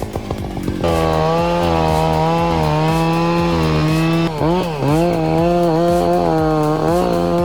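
Two-stroke chainsaw running. It drops back for about a second, revs back up to full throttle, then holds a high steady whine. The pitch dips as the chain loads in the cut around four to five seconds in and again near the end.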